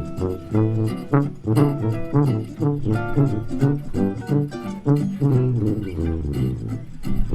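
Live hot club jazz band playing an instrumental passage, a plucked double bass keeping a steady beat under the lead line.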